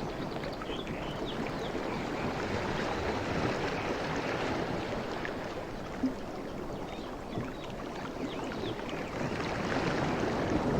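Sea waves washing in a steady rush of surf, swelling louder near the end.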